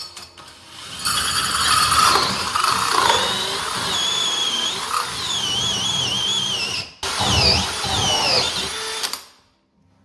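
Angle grinder with a diamond tile bit boring the drain hole through floor tile and into the subfloor, its motor whine wavering in pitch under load. It breaks off for an instant about seven seconds in, runs again, then stops about nine seconds in.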